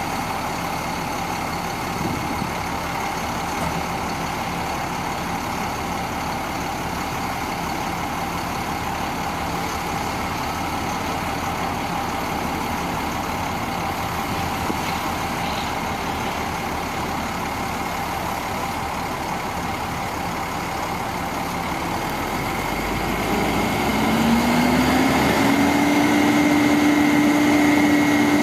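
Diesel engine of a 1999 International 4900 bucket truck idling steadily. Near the end the pitch rises and holds higher as a louder, steady whine.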